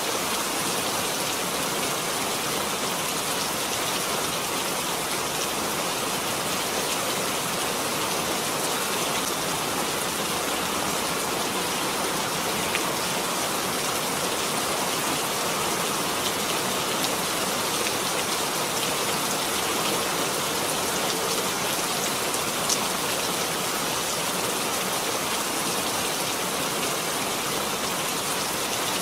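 Steady rain falling, a dense, even hiss with an occasional single louder drop tick.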